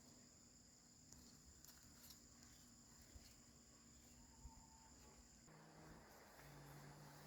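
Near silence with faint, steady high-pitched insect song, like crickets, which fades out about five and a half seconds in as a faint low hum takes over.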